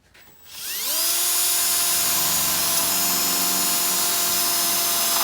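Power drill spinning up about half a second in, then running steadily at full speed while drilling a rivet hole through a steel piece.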